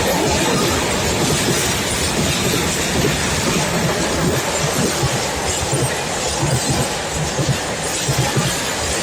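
Freight train running past, its wagons' wheels making a steady, loud rumble on the rails.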